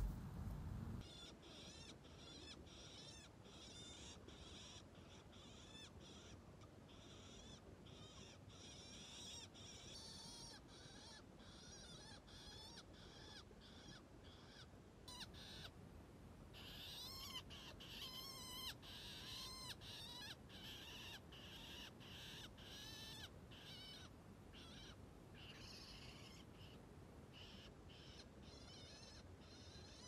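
Faint birdsong: small birds giving repeated short, high chirps, with a louder run of wavering calls a little past the middle.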